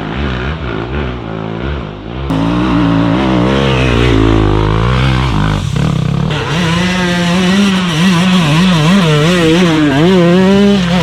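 Enduro dirt bike engine under way, its pitch rising and falling with the throttle. It gets louder about two seconds in, and from about six seconds the revs swing up and down quickly and repeatedly.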